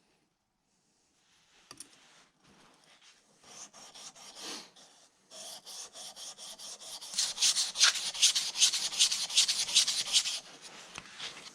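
Hand filing in quick back-and-forth strokes, about five a second, starting light and getting louder and more rapid about halfway through before easing off near the end.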